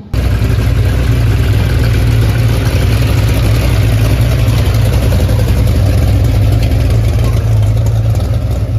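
Drag-race coupe's engine running at a loud, steady idle as the car rolls slowly past, a deep even rumble with no revving.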